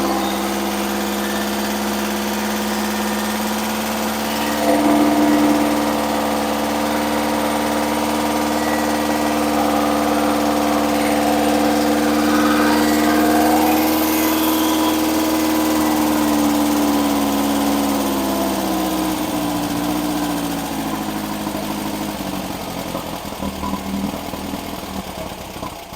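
Engine running at a fast idle during camshaft break-in, picking up speed a little about five seconds in. From about eighteen seconds in it slows and runs unevenly, and it is dying by the end: a stall that the owner thinks is very likely from running out of gas.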